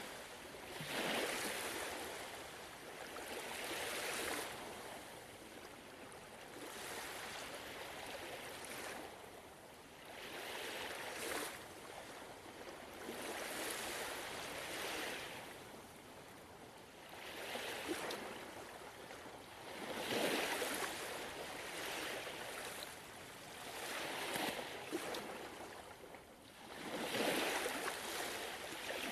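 Gentle ocean waves washing ashore, with a swell of surf every few seconds and louder breaks about a second in and near the end.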